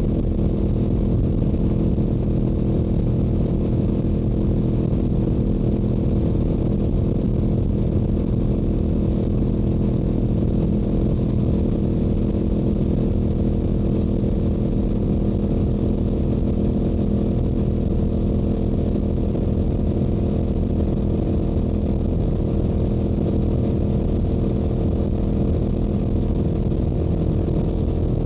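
Stock Yamaha YZF-R7's parallel-twin engine and exhaust at a steady highway cruise, holding an even note with no change in revs.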